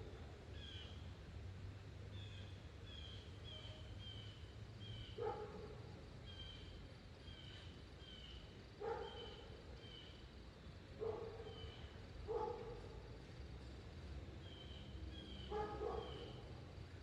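Wind rumble with a small bird chirping over and over in short, slightly falling chirps, and a dog barking five times, singly, every few seconds.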